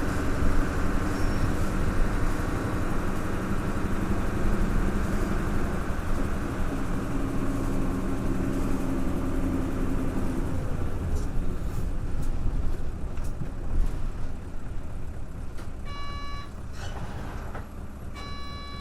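Isuzu KL-LV280L1 city bus's V8 diesel engine pulling under load, then easing off about ten seconds in as the bus slows and the sound drops. A short electronic chime sounds twice near the end.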